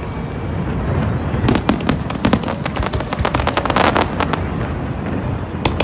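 Fireworks going off: a steady low rumble of distant bursts, with rapid crackling pops from about one and a half seconds in until past four seconds, and again near the end.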